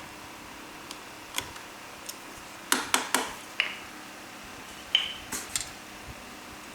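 Hand tools clinking on the steel knives and screws of a planer cutter head as a knife is adjusted and its gib screws are snugged. The clicks and taps are light and scattered, and two of them ring on briefly at a high pitch.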